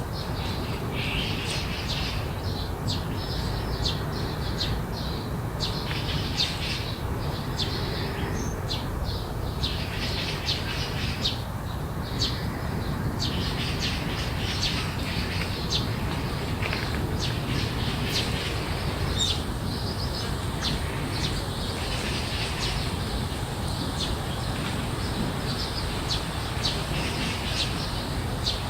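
Garden birds chirping in many short, quick calls, overlapping and continuing throughout, over a steady low background rumble.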